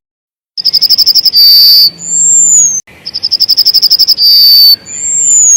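Yellowhammer singing two songs. Each is a fast run of about ten short high notes, followed by a longer held note and a high drawn-out note that slides down at its end.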